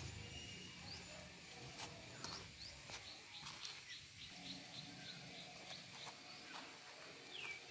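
Birds chirping faintly: short high chirps and quick glides, with a fast run of ticks about halfway through.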